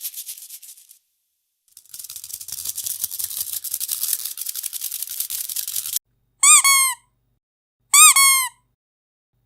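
A shaken rattle makes a fast, high rattling for about four seconds, then cuts off. Then a squeaky dog toy is squeezed twice, each a loud squeak that rises and falls in pitch.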